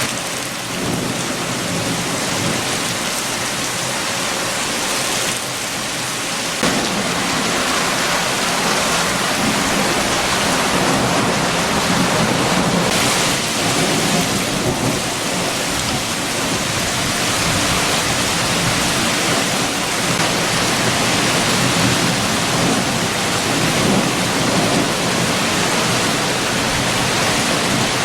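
Heavy rain with strong wind, a steady rushing hiss that grows a little louder about six seconds in.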